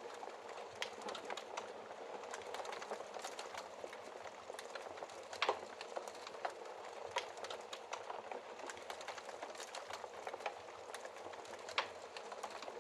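Wood fire in a fireplace crackling: a steady hiss with dense, irregular pops and snaps, one louder pop about five and a half seconds in.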